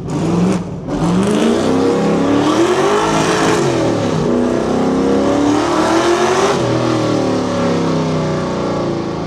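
Fox Body Mustang's V8 at full throttle through the gears: short rev dips in the first second, then a long pull whose pitch climbs and drops at upshifts about four seconds in and again near six and a half seconds, then holds steadier and eases off slightly near the end.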